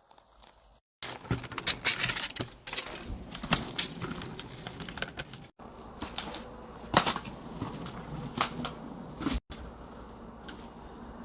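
Inline skate wheels rolling over rough pavement: an irregular rattle and clatter with sharp knocks, broken by a few abrupt dropouts.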